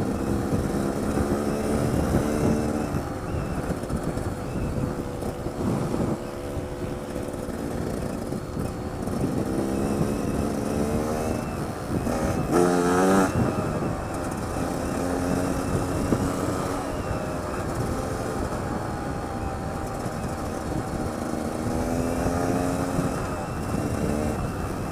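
Trail motorcycle engine running under load, its pitch rising and falling several times as the throttle is opened and closed. Heavy wind rush on the helmet-mounted camera's open-backed microphone runs under it.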